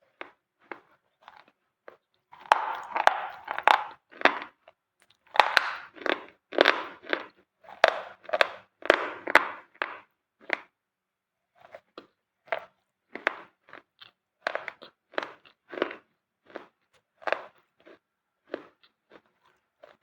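Close, dry crunching of a brittle white material, in quick clusters of crunches for the first half and then separate single crunches.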